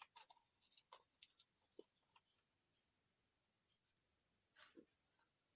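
A steady, high-pitched chorus of insects chirring, with scattered light clicks and ticks over it.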